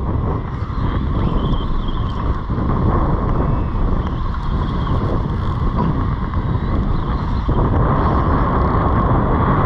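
Wind buffeting the microphone, a loud, steady rumble.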